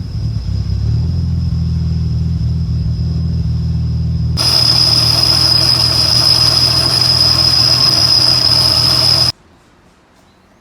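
Nissan Skyline ER34's RB25 straight-six running at a steady idle, with a steady high whine over it; about four seconds in it turns louder and noisier, then stops abruptly with about a second left. The engine is pouring white smoke and is suspected of being blown.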